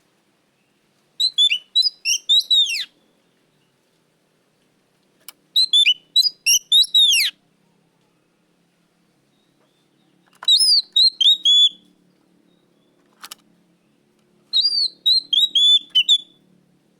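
Oriental magpie-robin (kacer) singing: four loud phrases of rapid, clear whistled notes, each lasting a second or two, with pauses of a few seconds between them.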